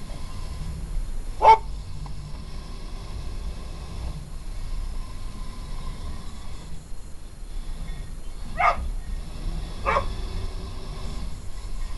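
Dog barking three times, one loud bark and then two more about a second apart later on, over the steady whine of the Kyosho Blizzard RC snowcat's electric motor and drive, which comes and goes.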